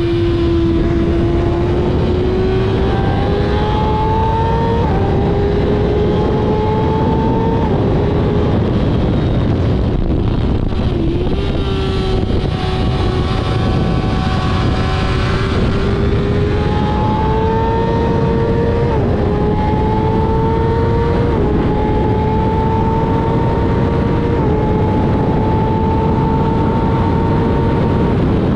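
Kawasaki ZX-6R inline-four sport bike engine at high revs, pulling hard and upshifting through the gears several times. The revs fall away about eleven seconds in as the bike slows, then it accelerates again with four more upshifts. Heavy wind noise rushes over the microphone throughout.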